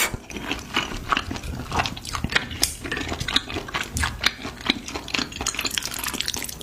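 Close-miked chewing of spicy noodles and beef intestines: a rapid, irregular run of wet mouth clicks and smacks, several a second.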